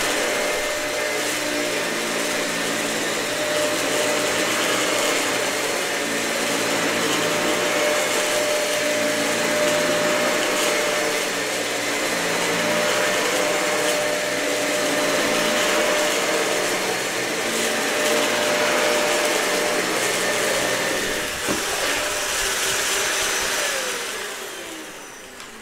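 Dyson vacuum cleaner running over thick, matted carpet, its low tone shifting every couple of seconds with the strokes. Near the end its pitch falls and the sound dies away as the motor winds down.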